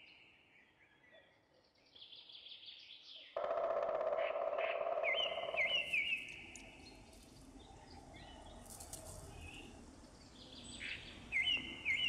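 Birds calling in quick series of short, repeated chirps after about two seconds of near silence. A louder noise runs underneath from about three to six seconds in.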